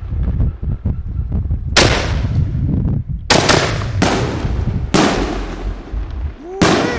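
6-inch Buffalo Bomb canister fireworks shells bursting overhead: about six sharp bangs, two of them in quick succession in the middle, with a low rumbling echo rolling between them.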